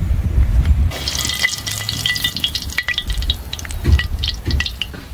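Sausages frying in hot oil in a cast-iron pan: dense crackling and popping spatter, with a spatula stirring and turning them. A low rumble fills the first second before the crackling takes over.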